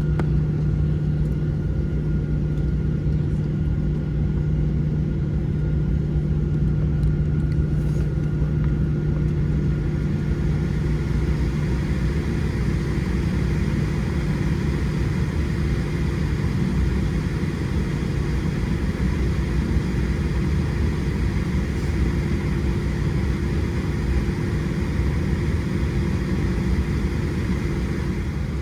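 Steady cabin noise of a Boeing 737-700 on the ground with its CFM56 engines running: a low rumble under a steady hum, with a higher whine growing in about ten seconds in.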